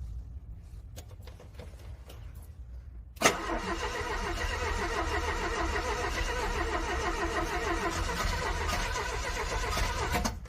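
Car engine cranking over on its starter in freezing cold without catching. A sharp click about three seconds in is followed by about seven seconds of even, rhythmic cranking, which cuts off abruptly near the end.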